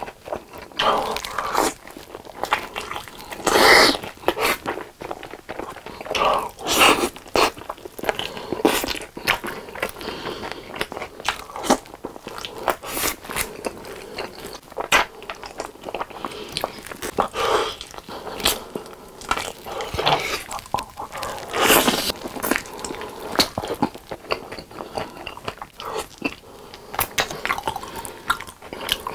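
Close-miked chewing and biting of sticky, sauce-coated fried chicken: irregular crunches and wet mouth sounds, with the meat torn off the drumstick bone by hand.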